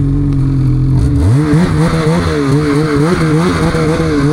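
Snowmobile engine running steadily, then revved hard about a second in and held at high revs, its pitch rising and falling as the throttle is worked.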